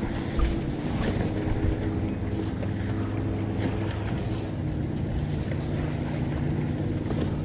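A boat engine running steadily, with wind buffeting the microphone and water noise around the hull. There is a light knock about half a second in.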